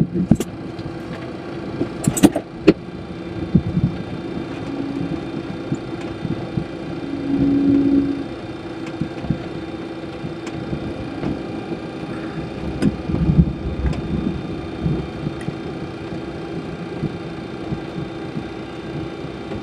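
Steady cockpit hum and rumble of a Boeing 727-200 with its engines at idle, before takeoff thrust is set, with a few faint clicks. A brief louder hum swells about seven seconds in.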